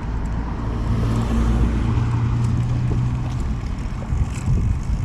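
A motor vehicle passing on the road, its low engine hum steady for about three seconds and then fading, over wind rumble on the microphone.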